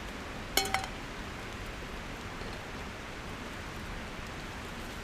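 Steady sizzle of potatoes and Spam frying in a Trangia cook-kit pan. About half a second in there is a short double metallic clink of the cookware, with a brief ring.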